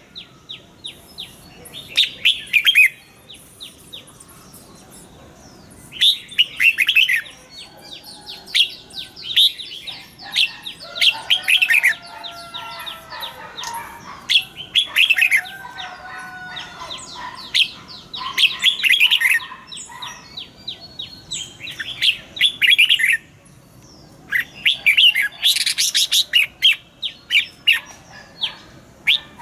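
Red-whiskered bulbuls singing: short bursts of rapid, bright chirped phrases repeating every few seconds. Lower sliding whistles are mixed in around the middle.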